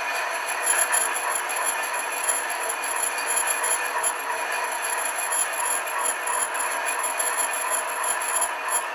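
Metal lathe running with a brazed carbide tool cutting a rusty steel ring: a steady, rough scraping and clattering cutting noise with the machine's steady whine underneath.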